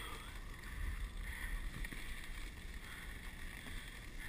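Dog sled gliding along a snow trail: the runners hiss steadily on the snow, with a low wind rumble on the microphone.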